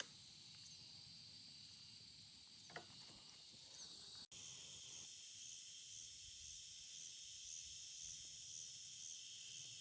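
Faint evening insect chorus, crickets trilling steadily high in pitch. It breaks off for an instant about four seconds in, then carries on as a pulsing chorus.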